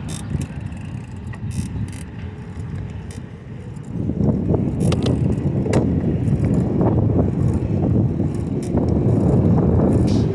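Bicycle being ridden over pavement: a low rumble of tyres and wind on the microphone that gets louder about four seconds in, with scattered short clicks and rattles from the bike.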